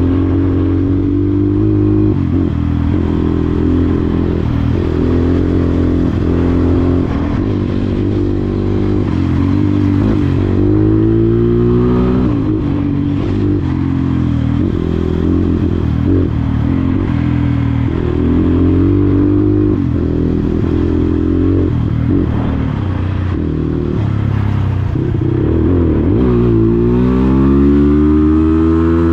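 Dirt bike engine running while ridden. The revs rise and fall repeatedly as the throttle is worked and gears change, with a long climb in revs near the end.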